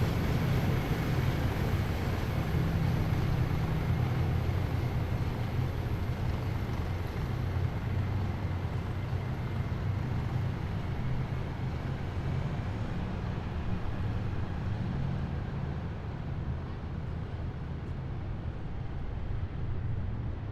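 Heavy military vehicles of a parade column driving past with a steady, deep engine rumble that slowly fades as they move off.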